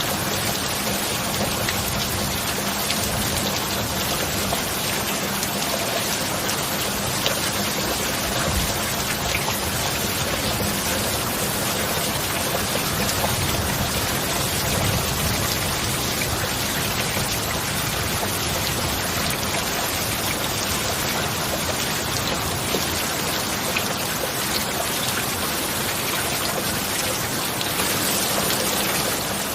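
Steady heavy rain falling: a dense, even patter of drops with no thunder. A faint steady low tone sits underneath, the binaural beats mixed into the track.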